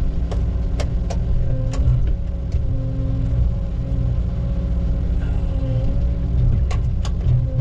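Diesel engine of a hydraulic log loader running steadily, its pitch shifting slightly a few times, with several sharp clicks or knocks.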